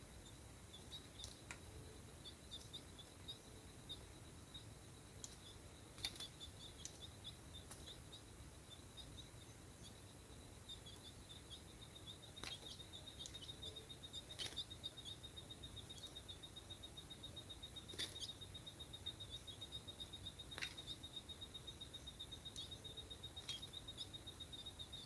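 Faint outdoor ambience: a steady, high-pitched pulsing trill with a few short, sharp chirps scattered through it; no full song phrase.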